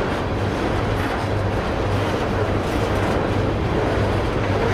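Railroad tank cars rolling past on steel rails: a steady noise of many freight-car wheels running on the track.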